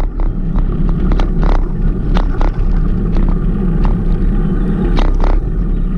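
Loud, steady low rumble of wind buffeting the microphone while riding a bicycle, with many sharp clicks and rattles scattered through it.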